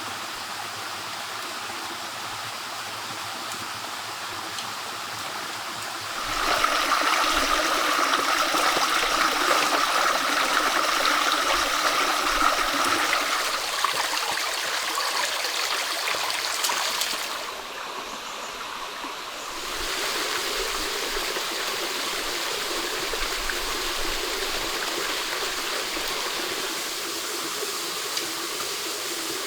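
Stream water running, a steady rushing splash. It gets louder and brighter about six seconds in, drops back for a couple of seconds past the middle, then settles at a steady level.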